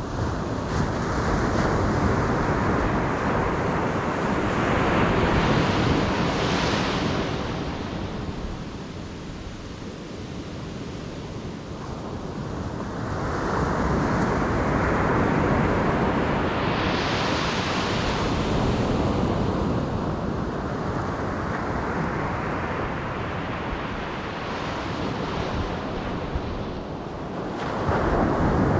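Ocean surf breaking on the beach: waves crash and wash up the sand in slow surges, with several swells and lulls over the half minute. Wind buffets the microphone.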